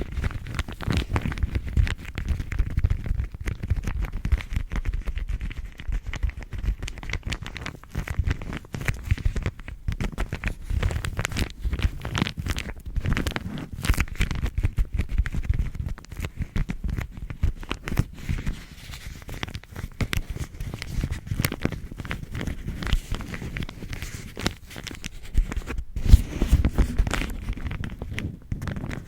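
A bag crinkling and rustling as it is squeezed and handled close to the microphone: dense, irregular crackles over a low handling rumble.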